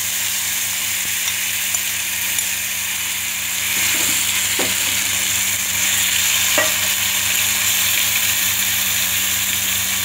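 Marinated chicken sizzling steadily as it fries in hot oil in a non-stick frying pan, while a steel spoon stirs it, tapping and scraping against the pan a few times around four and six and a half seconds in.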